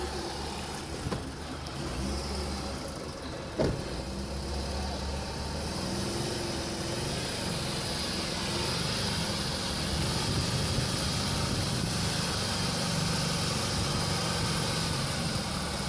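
Heavy truck engine running steadily at a low speed, with a single knock about four seconds in.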